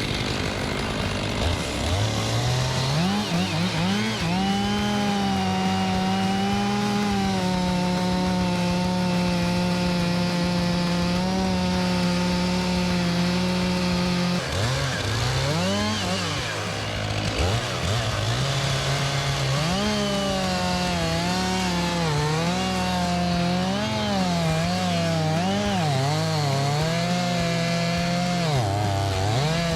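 Two-stroke chainsaw cutting into a tree trunk: the engine revs up, holds a steady high pitch, drops back about fourteen seconds in, then revs again with a wavering pitch as it works through the wood.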